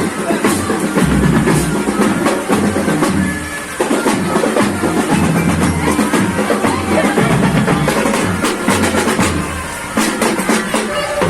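School marching band playing, led by its drums: bass drums thudding under snare strokes, with a pitched melody part.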